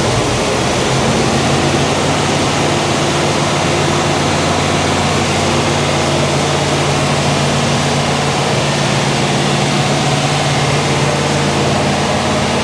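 Freshly built 396 big-block Chevy V8 of a 1967 Chevelle SS running steadily on its first start-up, its note shifting slightly about a second in and then holding even.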